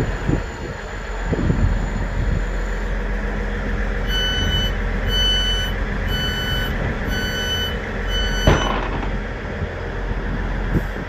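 Train door-closing warning beeps: five evenly spaced high beeps, about one a second, over the steady low rumble of a Great Western Railway diesel train, with a thump as the beeping ends, typical of the doors shutting.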